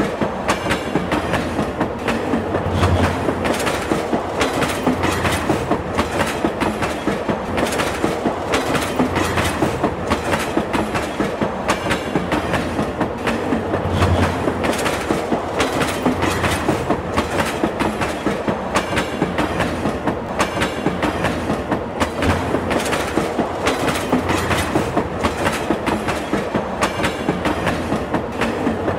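Railway carriage wheels running over rail joints: a steady rumble with a regular clickety-clack.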